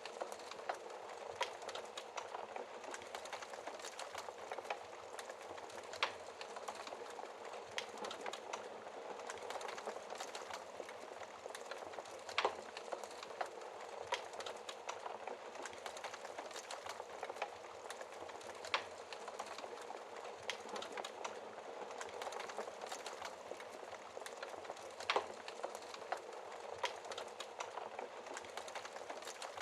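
Wood fire burning in a fireplace, heard through its glass door: a dense, steady crackle with a few sharper pops every several seconds.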